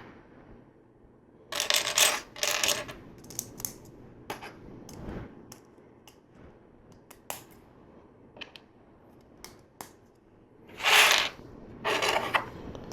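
LEGO plastic pieces clicking and clattering as they are handled and snapped together, with louder rattling bursts of loose pieces about two seconds in and again near the end.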